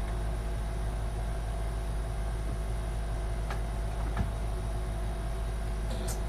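A steady low hum runs throughout, with a few faint clicks and taps from handling the computer case and motherboard, and a couple of sharper clicks near the end.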